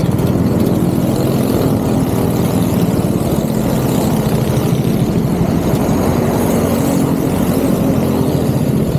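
Go-kart engine running steadily at a fairly even pitch.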